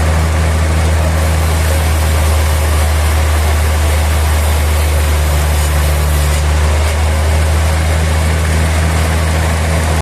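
Sawmill machinery running steadily: a deep, even engine hum with a hiss over it.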